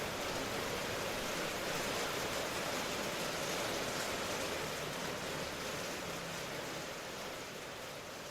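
Steady, dense rain hiss with no distinct drops or thunder, easing slowly in loudness over the last few seconds.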